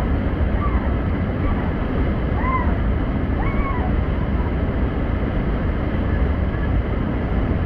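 Mountain creek and waterfall rushing loudly, a steady dense wash of white water. A few faint short high calls sound over it in the first few seconds.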